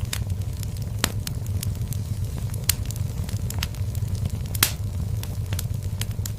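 Wood fire burning in a fireplace: a steady low rumble of the flames with irregular sharp crackles and pops, one loud pop a little before five seconds in.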